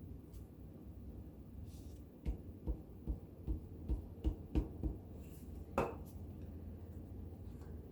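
Soft taps against paper on a tabletop during gluing: about eight quick dull taps over two and a half seconds, starting a couple of seconds in, then one more tap with a short rustle.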